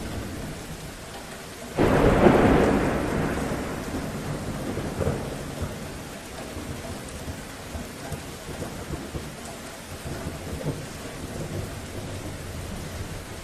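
Steady rain falling, with a sudden clap of thunder about two seconds in that rumbles away over the next few seconds. Scattered drips sound over the rain.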